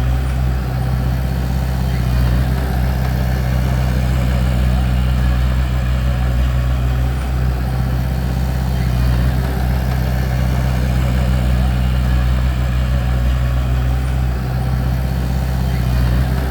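Bulldozer's diesel engine running at a steady speed, a low even drone with no revving or clanking.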